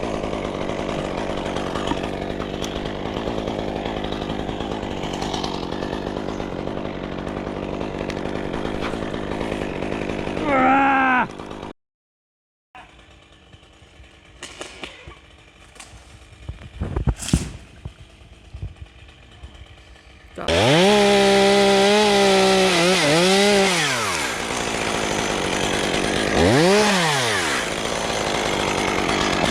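Chainsaw at high revs cutting wood, its pitch dipping and recovering as the chain bites and is eased back. Before that comes a steadier machine noise that ends abruptly, then a few quieter seconds with scattered sharp clicks.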